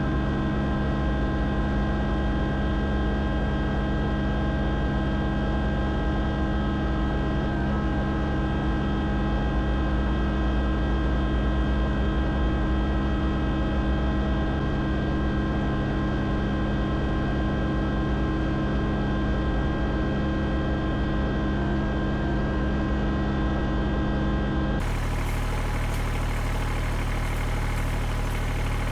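Tractor engine running steadily. About 25 s in, the sound changes abruptly to a different, lower steady engine note.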